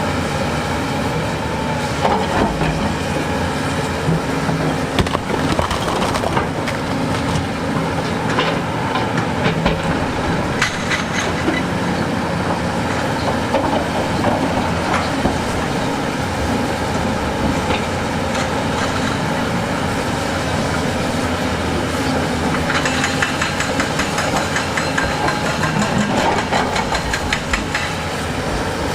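Heavy excavator's diesel engine running under load, with repeated clanks and scrapes of steel on rock. A fast rattling clatter starts near the end.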